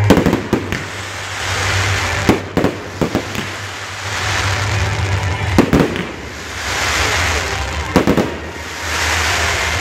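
Fireworks display: aerial shells bursting with sharp bangs, several close together about two to three seconds in and single ones later, between swells of hissing noise that rise and fall every few seconds.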